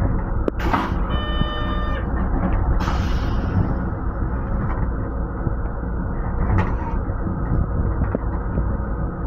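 Steady low rumble of a Metro-North M7 electric railcar, heard from inside its restroom, with a few short rushing noises and a brief high ringing tone about a second in.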